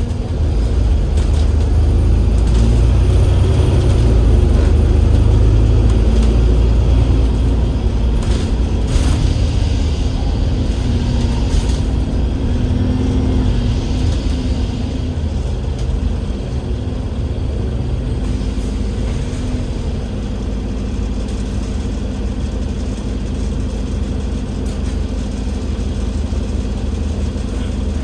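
Cummins L9E diesel engine and ZF Ecolife six-speed automatic gearbox of an Alexander Dennis Enviro500 MMC double-decker bus running on the road, a heavy low rumble. The rumble is strongest through the first half, then settles to a steadier, lighter drone with a steady hum.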